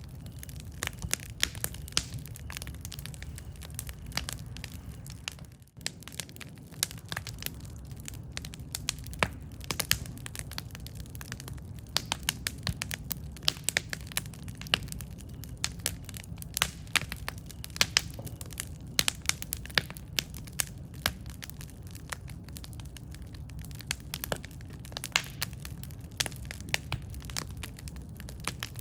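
Wood campfire crackling, with frequent sharp pops and snaps, several a second, over a steady low rumble of burning.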